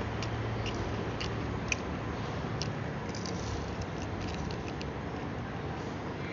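Chewing fried chicken feet close to the microphone: scattered small crisp and wet mouth clicks at an irregular pace, over a steady low hum.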